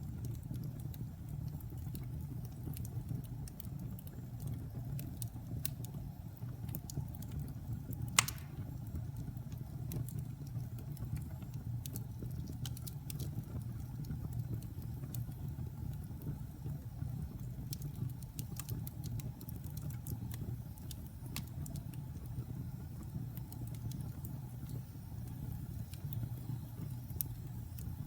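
Logs burning in a fireplace: a steady low rumble with scattered small crackles, and one loud pop about eight seconds in.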